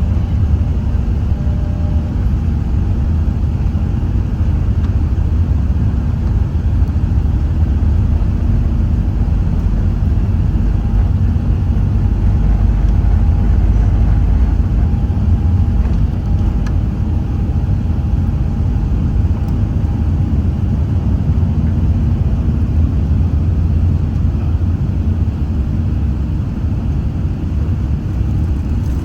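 Steady, loud low rumble inside the cabin of an Airbus A380 in motion: engine and airflow noise, with a faint steady hum above it.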